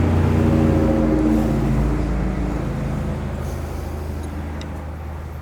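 A motor vehicle's engine passing by, a low hum with several steady pitched tones, loud at first and fading away over the next few seconds.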